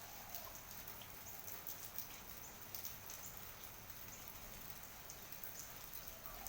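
Rain falling, with irregular drops ticking over a steady faint hiss. A faint wavering sound comes near the start and again at the end.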